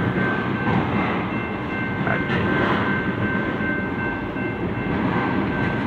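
Autorack freight cars rolling past a grade crossing: a steady rumble and rattle of wheels on rail, with a thin steady high tone over it, heard from inside a car.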